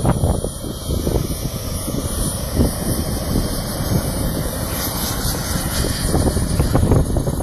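Engine of a radio-controlled model jet running steadily, a noisy roar with a thin high whine over it. Wind buffets the microphone now and then.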